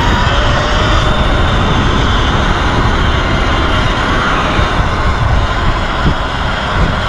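Wind rushing over the microphone and a steady drone from riding a Sur-Ron electric dirt bike, with a faint motor whine underneath.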